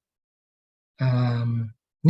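A man's voice holding one steady, flat-pitched hesitation sound, like a drawn-out "uhh", for under a second, after about a second of dead silence.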